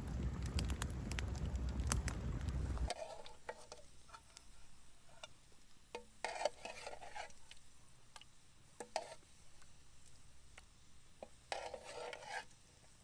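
A campfire crackles with sharp pops for about three seconds and then cuts off abruptly. After that, a spoon scrapes and clinks against metal cookware in a few short bouts while the soup is eaten.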